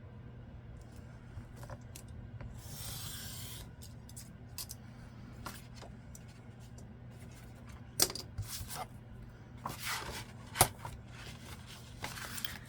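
A sheet of scrapbook paper being cut to size, with a scraping cut about two and a half seconds in, then paper rustling and two sharp taps later on.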